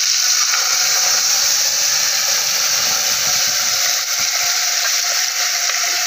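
Wet ground masala paste of tomato, onion and spices hitting hot oil tempered with mustard seeds, cumin and curry leaves in an aluminium pot, giving a loud, steady frying sizzle.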